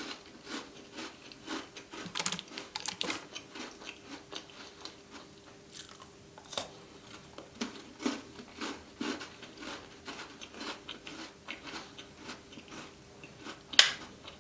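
Close-miked chewing and crunching of Tim Tam chocolate biscuits: a run of small crackly bites and mouth sounds, with one sharp, louder click near the end.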